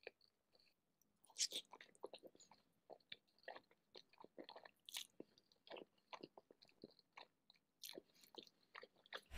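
Faint close-miked eating sounds: wet chewing, lip smacks and mouth clicks while eating sauce-covered noodles and seafood, with a few louder smacks scattered through.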